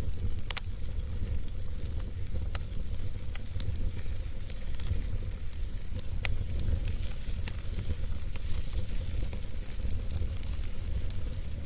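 Wood fire burning in a fireplace: a steady low rumble and hiss of the flames with scattered sharp crackles and pops, one louder pop about half a second in and another around six seconds in.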